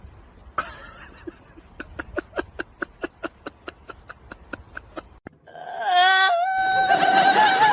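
A pet's repeated short whimpering squeaks, about four a second, then a long, loud, high-pitched cry held at one pitch near the end.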